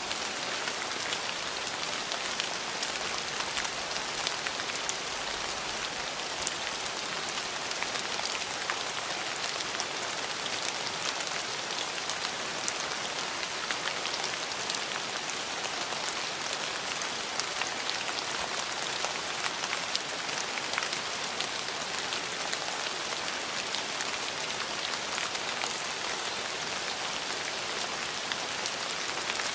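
Steady rain falling on hard surfaces: an even hiss with many fine drop ticks.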